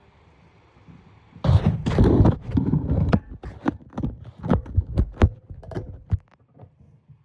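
Recoil starter rope pulled on a Honda EM3000 generator, a loud rush about a second and a half in, then a run of sharp irregular clicks as the engine is turned over without starting, during a spark check.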